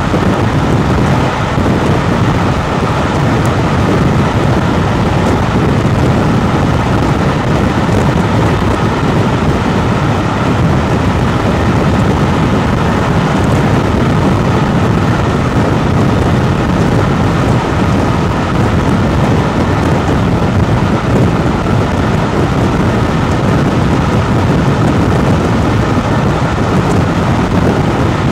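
Steady, loud rumble and rush of a steam-hauled passenger train running at speed, heard from on board: wheels on the rails and air rushing past, with no clear exhaust beat.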